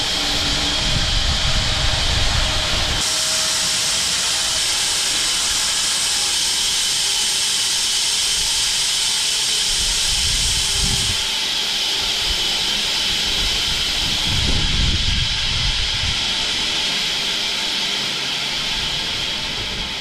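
Home-built bandsaw mill running and sawing into an acacia log: a loud, steady hissing noise of blade and drive. Its tone shifts about three seconds in and again about eleven seconds in.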